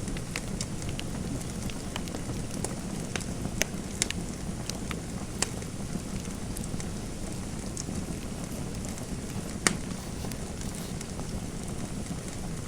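Fireplace fire crackling: a steady low rumble and hiss with scattered sharp pops, the loudest about ten seconds in.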